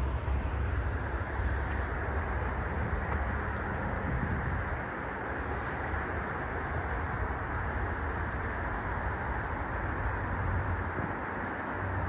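Steady wash of passing road traffic, a constant noise with no single vehicle standing out, over a low rumble.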